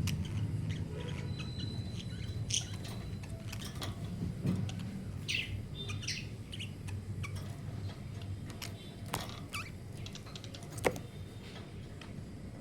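Pet budgerigars chirping in short, scattered calls, with a few sharp clicks and a steady low hum underneath.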